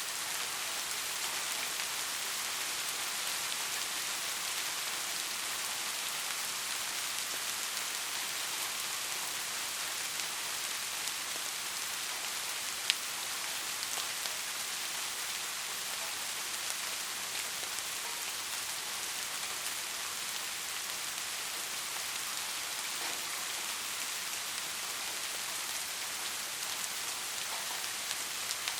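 Steady heavy rain falling, an even hiss with scattered sharp drop ticks, one louder tick about halfway through.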